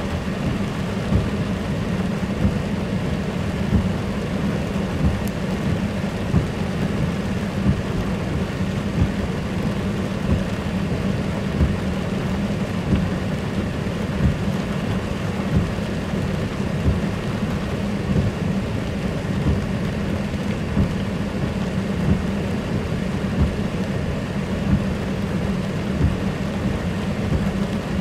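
Heavy rain falling steadily, with a constant low rumble underneath and frequent brief knocks about every second.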